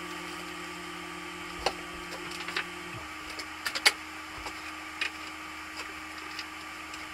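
A steady low electrical or mechanical hum, one of its tones cutting out about three seconds in, with a handful of light clicks and taps scattered through, the sharpest about four seconds in.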